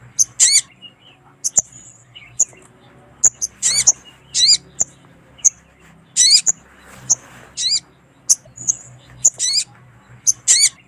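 Little spiderhunter (sogon) calling, used as a lure call in which a female calls to males. Sharp, high single chips repeat every half second to a second, broken by several short runs of rapid arched notes.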